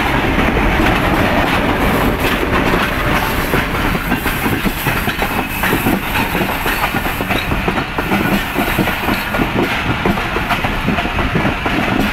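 Passenger train coaches rolling past close by as the train runs through a station without stopping. Their wheels give a steady, loud clatter over the rail joints.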